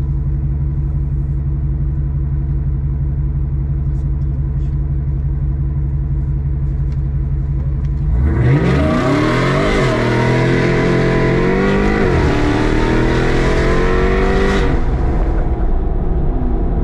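A car engine idling with a deep, steady note, then revving hard about eight seconds in. The pitch climbs and drops back twice before the loud stretch cuts off a couple of seconds before the end, leaving the engine running lower.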